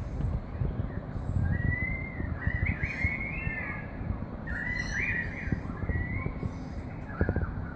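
Birds calling in short warbling phrases, three bursts of song, over a steady low rumble.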